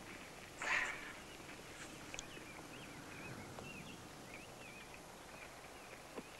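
Faint outdoor ambience with small birds chirping, a run of short wavering chirps through the middle. A brief burst of noise just under a second in is the loudest moment.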